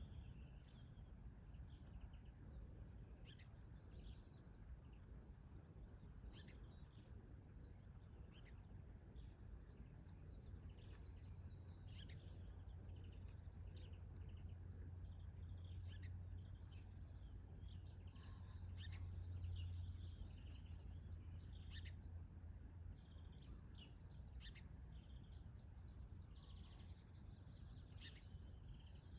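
Small birds chirping and singing in short, scattered calls over a faint low rumble that swells about two-thirds of the way through and then eases off.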